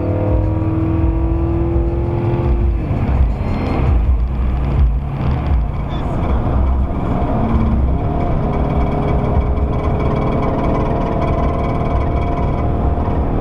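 Vehicle engine pulling under acceleration, heard from inside the cabin. Its pitch rises slowly, then drops at a gear change about three seconds in, and it runs steadier after that.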